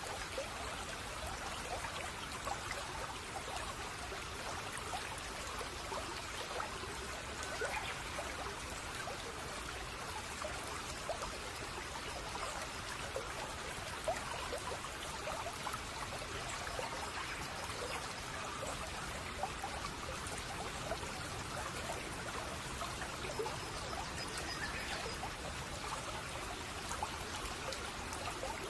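Shallow brook babbling and trickling steadily over stones, with a dense patter of small splashes.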